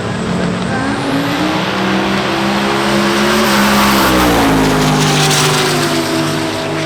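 Drag race car engine at full throttle on the strip, its pitch climbing for a few seconds, then dropping sharply about halfway through and running on lower as the car goes by.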